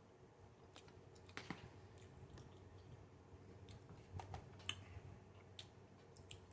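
Near silence with faint, scattered small clicks and smacks of a person chewing food.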